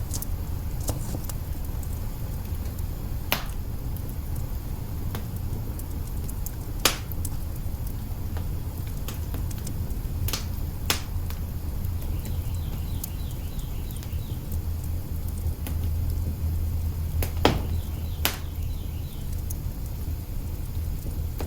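Wood fire crackling in an open hearth: a steady low rumble of burning logs with scattered sharp pops, the loudest about seven seconds in and again about seventeen seconds in.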